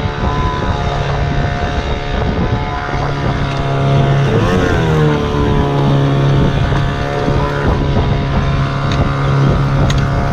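Sailboat's auxiliary engine running hard at full throttle, a steady drone whose pitch swings up and back down briefly about halfway through, with wind buffeting the microphone.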